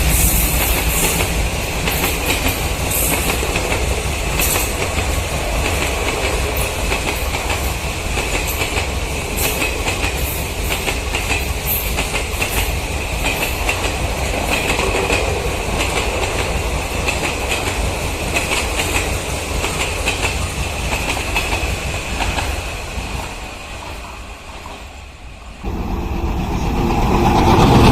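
Train coaches rolling past over the rails, wheels clattering over rail joints with a steady high ringing from the wheels on the track. The clatter fades away about 23 seconds in, then a second train abruptly takes over and grows louder near the end.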